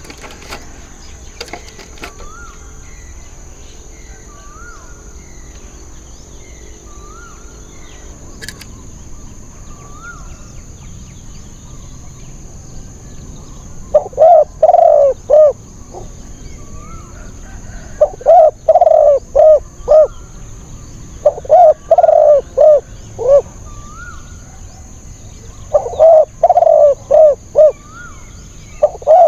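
Spotted doves cooing: loud phrases of several short, low coos, beginning about halfway through and coming every three to four seconds. Before them, a small bird repeats a short rising chirp about once a second, over a steady high insect whine.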